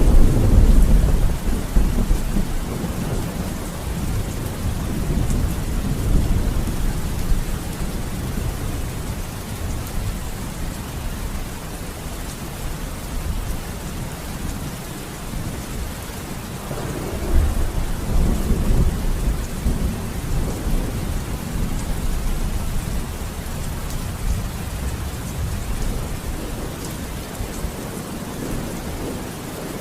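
Thunderstorm: steady rain with two long rolls of thunder, the first a sudden loud crack-and-rumble at the start that fades over several seconds, the second rumbling in about halfway through and dying away slowly.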